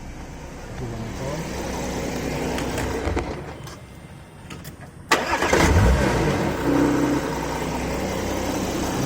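Porsche Macan engine running, switched off about three seconds in, then restarted with a sudden loud start about five seconds in and settling to an idle, heard from inside the cabin. A rattle goes with it, which the mechanic traces to a loose engine exhaust bracket next to the gearbox.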